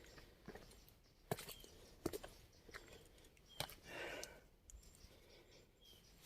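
Faint, irregular footsteps crunching on a dry dirt path, with a brief soft rustle about four seconds in.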